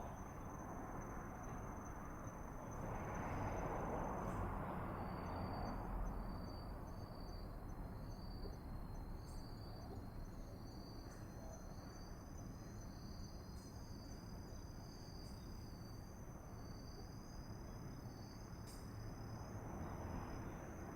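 Crickets singing: one steady high trill throughout, joined from about five seconds in by another insect's evenly repeated short chirps slightly lower in pitch, over a soft low background hiss that swells briefly near the start.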